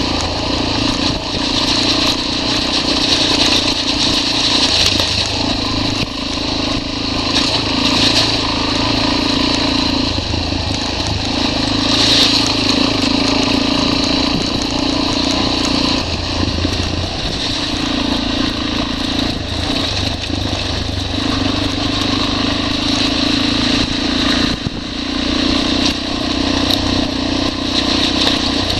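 Motorcycle engine running while riding a rocky, sandy dirt trail, its note swelling and easing every few seconds with the throttle, over a steady rush of wind and road noise.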